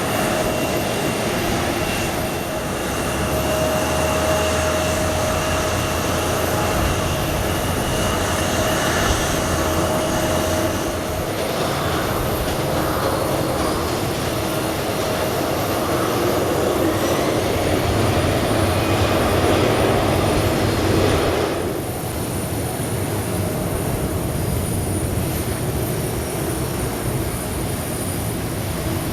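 Boeing 777-300's Pratt & Whitney PW4090 turbofan engines running with a steady jet noise and a few held whining tones; the sound changes about 22 seconds in, its upper part falling away.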